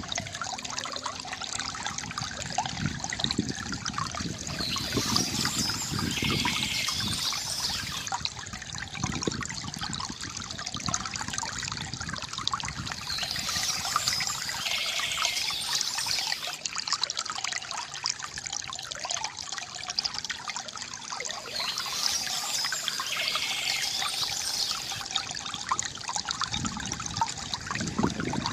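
Water from a bamboo fountain trickling and gurgling steadily, with bursts of bird chirping that come back about every eight seconds.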